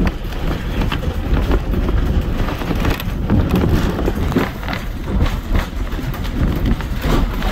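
Narrow-gauge train heard from aboard a passenger car while rolling along the track: a steady low rumble with irregular clicks and clacks from the wheels and car.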